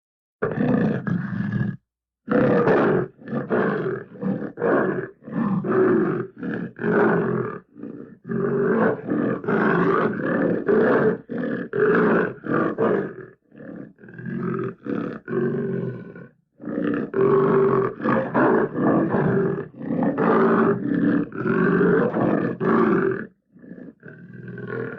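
Big-cat roar and growl sound effects: a long run of short roars in quick succession, each under a second, with brief breaks between them.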